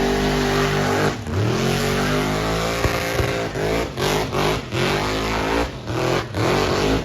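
Truck engine revving hard: held high at first, dropping about a second in, climbing steadily again, then blipped up and down in a quick series of revs.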